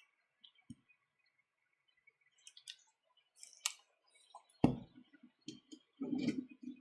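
Small clicks and rustles of hands handling things on a workbench, with one sharp knock about two-thirds of the way through and a short cluster of dull thumps and rustling after it.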